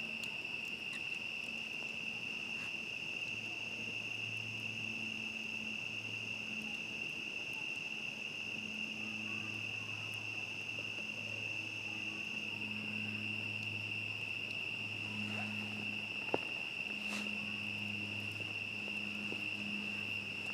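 Steady chorus of crickets trilling on one high, unbroken pitch. A low hum comes and goes underneath, and a few faint crackles from a campfire sound, the sharpest a little after the middle.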